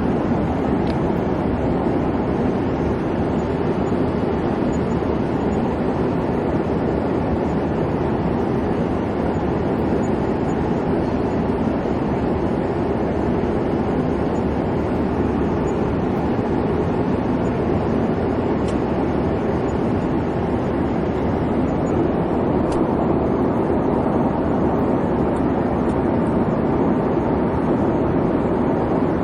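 Airplane cabin noise in flight: a steady low rumble and hum of the engines and cabin, even and unchanging throughout.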